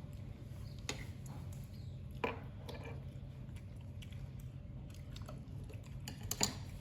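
Pet monkey chewing: a few scattered wet clicks and smacks, the loudest near the end, over a steady low hum.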